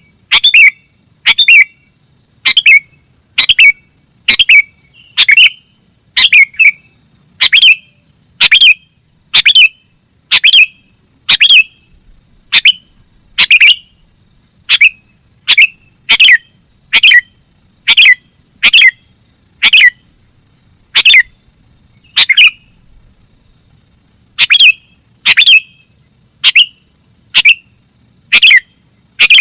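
Sooty-headed bulbul (kutilang) giving short, sharp chirps over and over, about three every two seconds, with a brief pause about two-thirds of the way through. A steady high insect drone runs underneath.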